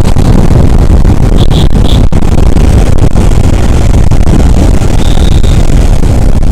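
Loud wind rush and road noise on a moving motorcycle's microphone, with engine and traffic underneath. A few short high beeps come about one and a half to two seconds in, and a longer one about five seconds in.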